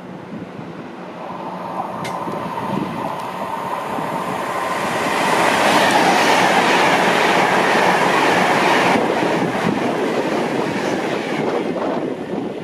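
A train going by on the line, its noise building to a peak around the middle and then easing off.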